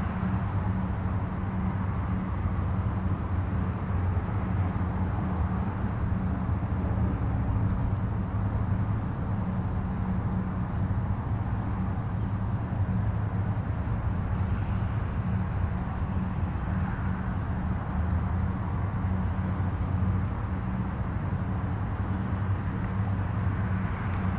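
Steady low drone of distant highway traffic, a continuous rumble of tyres and engines with slight swells as vehicles pass.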